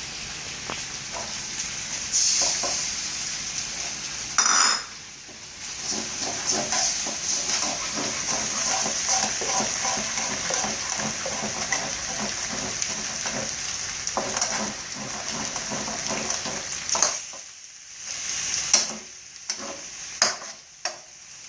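Seafood fried rice sizzling in hot oil in a pan while it is stirred, with a spatula scraping and knocking against the pan. Near the end the sizzle drops and separate knocks stand out.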